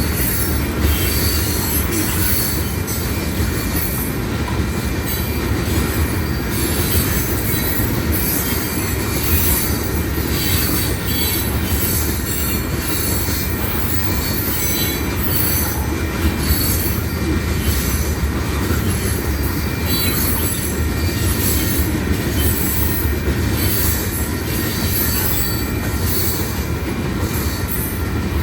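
A freight train's cars rolling past at close range: a continuous rumble of steel wheels on rail, with irregular clicks and clatter from the wheels.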